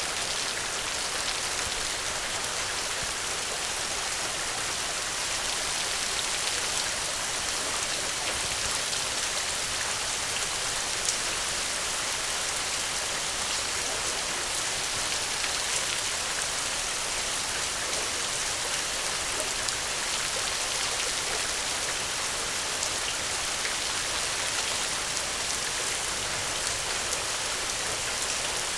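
Heavy rain falling steadily: a dense, even hiss of drops with fine pattering clicks.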